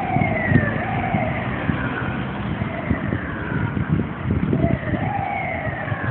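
Fire engine siren sounding in repeated falling sweeps about once a second, over a low rumble of engine and street noise.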